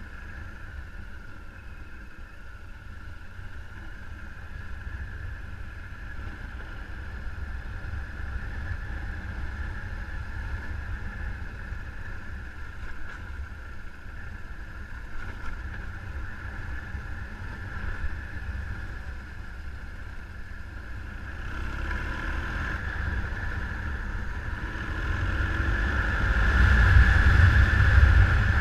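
A vehicle running with a steady mid-pitched drone, under heavy wind rumble on the microphone, growing louder in the last few seconds.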